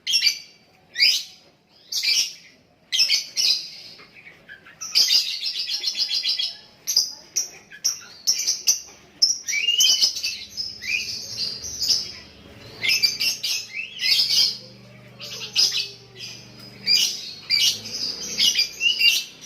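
Lovebird chattering: quick strings of high chirps and short rising squeaks in repeated bursts, with brief pauses between them.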